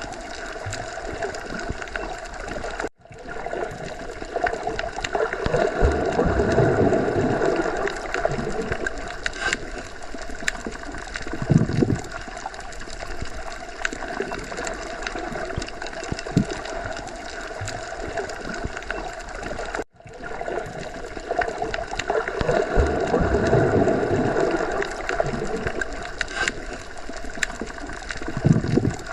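Underwater sea ambience: a steady, muffled wash of water with slow swelling surges, low gurgles and occasional small clicks. It cuts out for an instant twice, about 17 seconds apart, where the same stretch of sound repeats.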